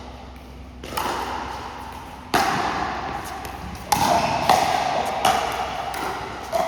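Pickleball paddles hitting the plastic ball in a rally: a series of sharp pops, first about every one and a half seconds and then closer together.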